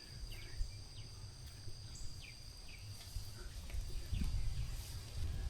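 Outdoor pasture ambience: a steady high insect drone with scattered short, falling bird chirps, over a low rumble that swells about four seconds in.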